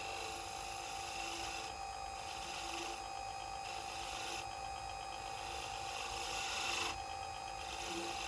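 A workshop machine running steadily while a tool scrapes and cuts, the cutting noise changing in strength every second or two.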